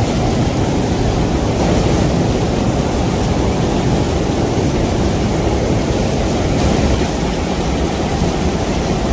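Floodwater rushing through a street: a steady, loud rush of water noise, heaviest in the low range, with no break or change.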